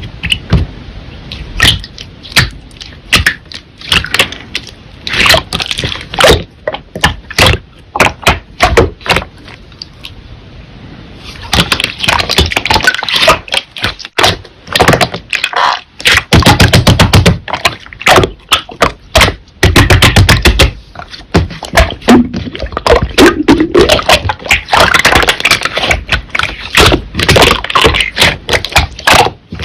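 Slime being squeezed, pressed and poked by hand close to the microphone, giving a run of sharp sticky clicks and pops. The popping is sparser at first and becomes denser and louder from about twelve seconds in.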